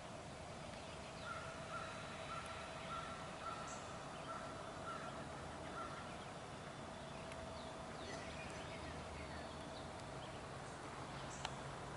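Outdoor ambience: a steady high drone, a quick run of short repeated chirps about twice a second that stops about halfway through, and a faint low rumble underneath.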